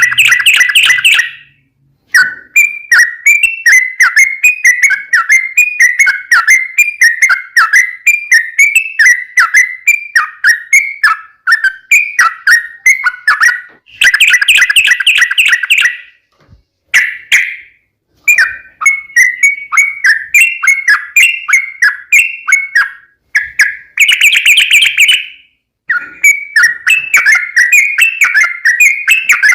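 Yellow-vented bulbul song: a long run of quick, clear chirping notes, about three or four a second, broken now and then by short, louder chattering bursts and brief pauses.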